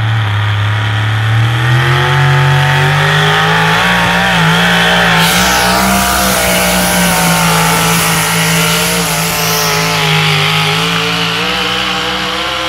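Modified 4x4 pickup truck's engine revving hard and held at high revs under load while pulling a weight sled. The pitch climbs over the first two seconds, then holds high with a slight waver.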